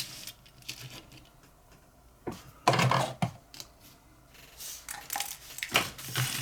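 Small metal drill bits and tools clinking and rattling as they are handled on a workbench: a few light clicks, then a louder rattle a little over two seconds in and another near the end.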